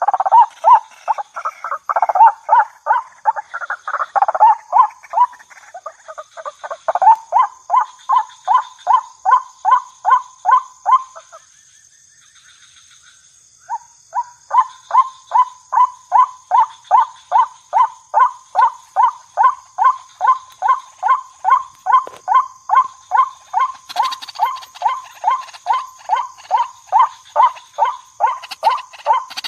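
White-breasted waterhen (ruak-ruak) calling: a long run of short, evenly repeated calls, about three a second, breaking off for a couple of seconds midway before starting again. A faint steady high tone runs underneath.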